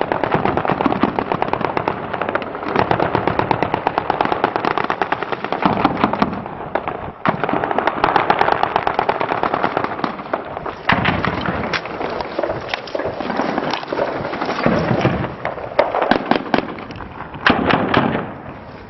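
Automatic weapons fire in long rapid bursts, many shots a second with short breaks, thinning to a few scattered separate shots near the end.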